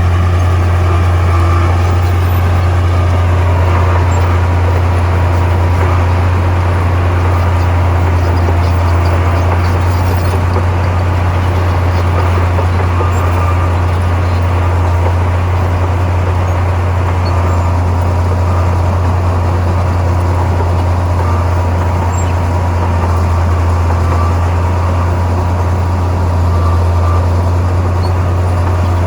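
Heavy diesel earthmoving machine running steadily, with a strong low, even engine hum.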